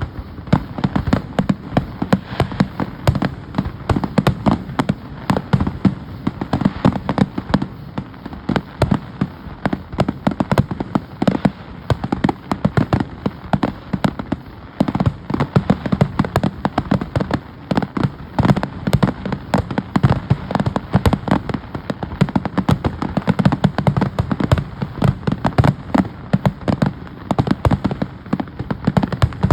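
Fireworks going off in a dense, continuous barrage: many sharp bangs and crackles a second, overlapping without a break.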